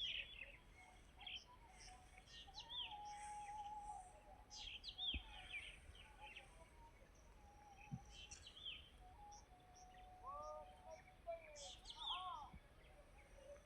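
Birds chirping faintly: scattered short, high calls that sweep down in pitch, with some longer, lower wavering notes in between.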